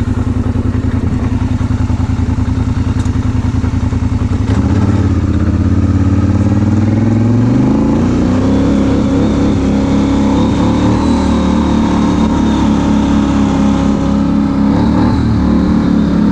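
ATV engine running through an aftermarket MRPP exhaust, idling steadily at first. About four seconds in it is revved up, and it then holds at a faster, steady speed.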